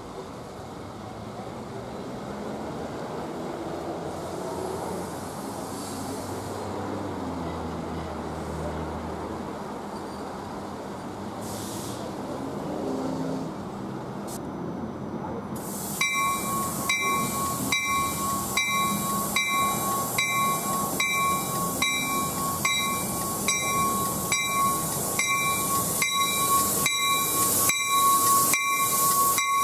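NJ Transit commuter train, pushed by an ALP-45DP diesel locomotive at the rear, rumbling into the station and rolling slowly past, growing louder. About halfway through a bell starts ringing steadily, about one and a half strokes a second, over the passing cars.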